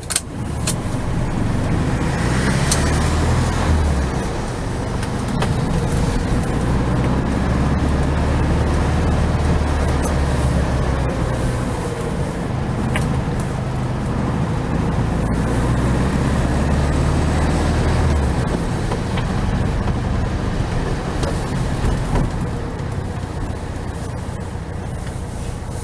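A vehicle running steadily on the move, with a low engine drone whose note shifts about four seconds in and again near eighteen seconds.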